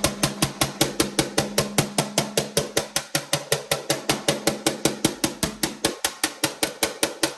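A metal spoon banging rapidly and evenly on a metal pan, about six strikes a second, with the pan ringing underneath.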